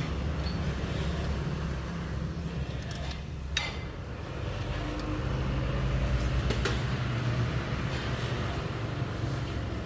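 Hyundai Starex van engine idling steadily, with a couple of brief clicks in the middle.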